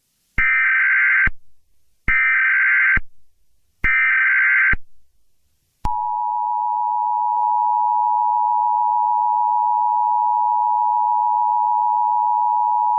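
Emergency Alert System tones: three short bursts of SAME header data, each under a second and about a second and a half apart. Then, about six seconds in, the steady two-tone EAS attention signal begins.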